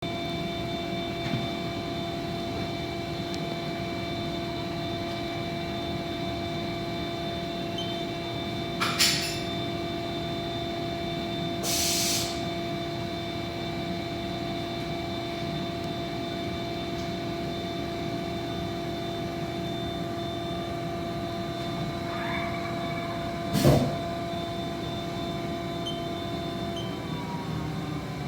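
Haas DS-30SSY CNC lathe running with a steady whine of several tones. Two short hisses come about nine and twelve seconds in, and a sharp clunk comes near the end.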